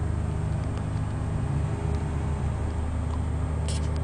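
Car engine running steadily, a low hum heard from inside the cabin, with a brief crackle of clicks near the end.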